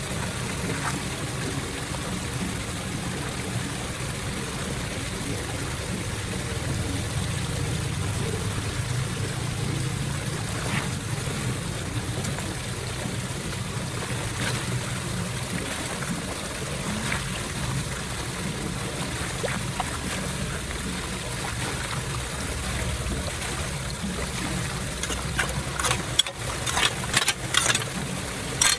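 Floodwater running steadily into a storm drain. Near the end comes a quick run of sharp clicks and knocks.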